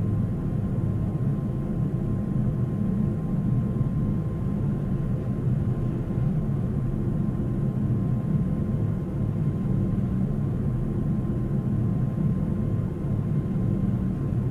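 Steady low rumble of an airliner, with a faint steady whine above it and no change throughout.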